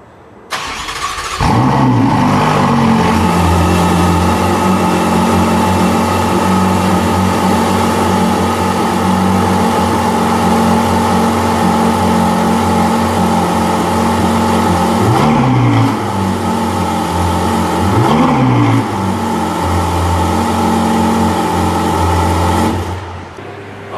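Ferrari 488 GTB's twin-turbo V8 cranks and catches about a second and a half in, then idles steadily. It gets two short blips of the throttle, at about 15 and 18 seconds, and is switched off about a second before the end.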